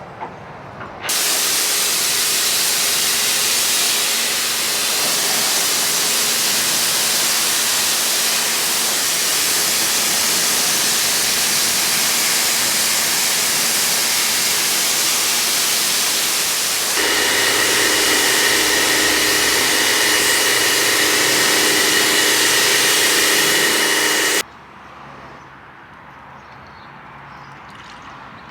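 A loud, steady hissing jet, typical of pressure-washer or air-blower work on a vehicle. It starts about a second in, picks up a steady whine and gets a little louder about two-thirds of the way through, then cuts off suddenly.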